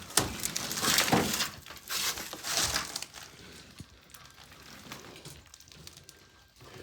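Junk in a cluttered shed being shifted and handled: rustling, crunching and clattering, busiest over the first three seconds, then a few quieter knocks.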